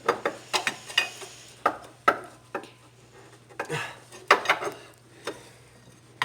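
Steel crowbar clinking and scraping against metal engine parts as it is worked in behind the drive-belt tensioner to lever it down and tighten the belt: a string of irregular sharp clinks, the loudest about four seconds in, over a faint steady hum.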